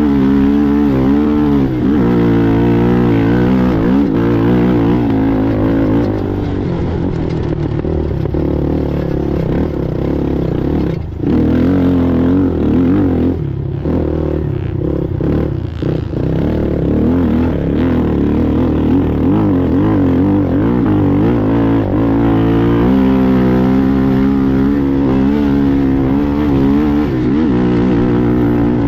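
ATV engine running hard under racing throttle, its pitch rising and falling as the rider works the throttle, with a brief cut about eleven seconds in and several short throttle lifts shortly after.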